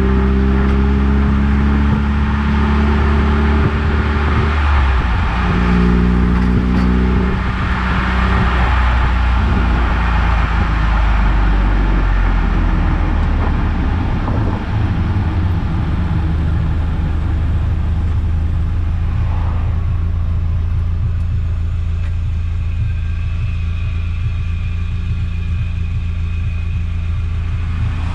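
Eunos Roadster (Mazda MX-5) driving: its four-cylinder engine running with road and tyre noise. The engine note shifts in steps during the first several seconds, then settles into a steady drone.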